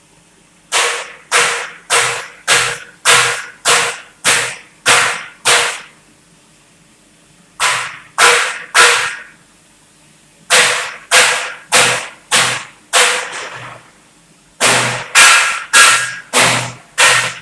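Hammer blows on metal, about two a second in runs with short pauses, each a sharp strike with a brief ring.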